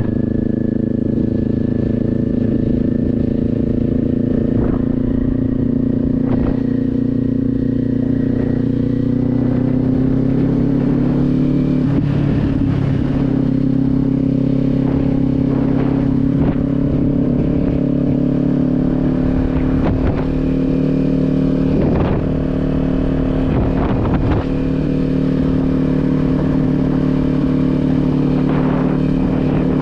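Kawasaki Z400's parallel-twin engine running at a steady cruise under way, its note rising a little about ten to twelve seconds in. Occasional gusts of wind hit the microphone.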